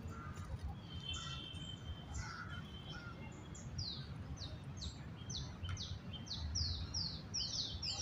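A bird calling: a string of short, high, falling notes, about two a second, coming faster toward the end, over a low steady background rumble.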